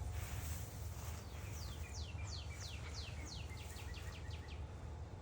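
A songbird singing one song of about a dozen quick downslurred whistles that speed up and shorten as it goes, over a low steady rumble.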